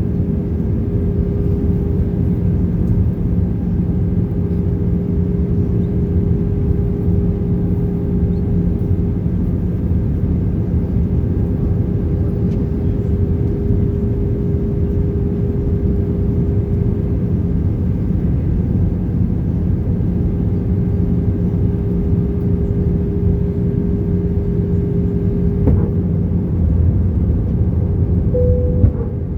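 Airbus A320 cabin in flight: a steady drone of engines and airflow with a constant hum in it. There is a brief click near the end.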